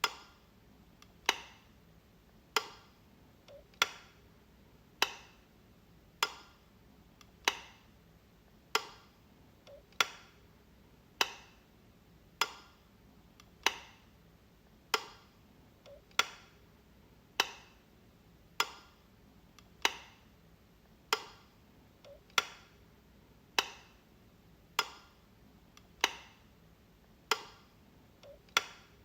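Light switch clicking over and over, one sharp click about every one and a quarter seconds, with a fainter click just before a few of them.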